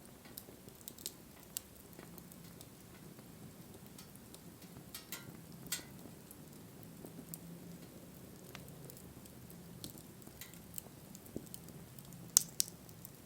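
Wood fire burning, with scattered crackles and snapping pops over a soft low rumble of flame; the sharpest pop comes near the end.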